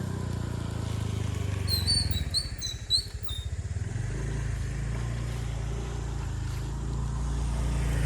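A small engine running steadily with a low, pulsing note, while a bird chirps several times in quick succession about two seconds in.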